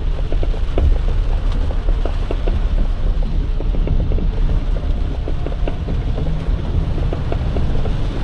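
Box truck driving, heard from inside the cab: a steady low engine and road rumble, with scattered light ticks throughout.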